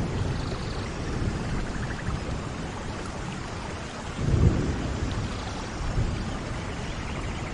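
Steady heavy rain with low rolls of thunder, the loudest swelling up about four seconds in and a smaller one around six seconds.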